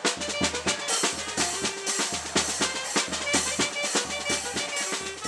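A small street percussion band playing a steady beat on bass drum and snare, with a few held melody notes over the drums.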